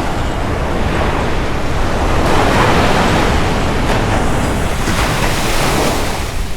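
Surf washing onto a sandy beach, the wash swelling from about two seconds in, with wind rumbling on the microphone.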